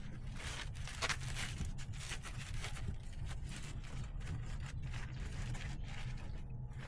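Split firewood being handled and stacked into a rack: pieces of wood scraping and knocking against each other at irregular intervals, over a steady low rumble.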